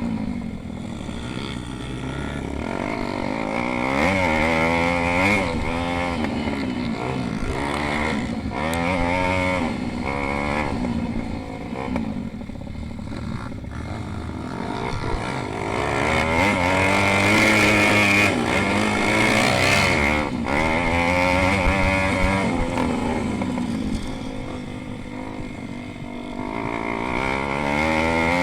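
Several pit bike engines racing, their pitch repeatedly rising and falling as they rev up and drop back, with overlapping engines at different pitches; louder passages come and go as bikes pass.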